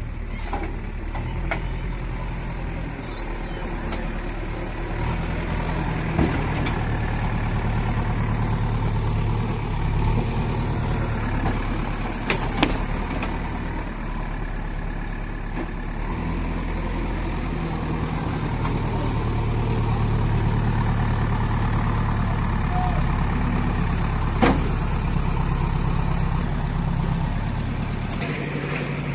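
Diesel engine of a JCB 3DX backhoe loader running, its pitch rising and falling as the load changes. A few sharp knocks come through it.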